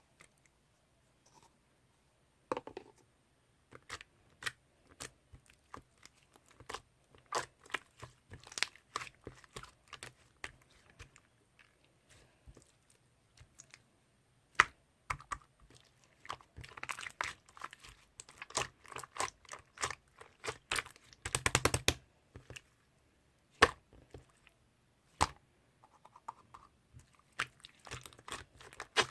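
Slime being worked by hand, giving many sharp clicking and popping sounds as air pockets burst, with a short fast run of crackling about two-thirds of the way in.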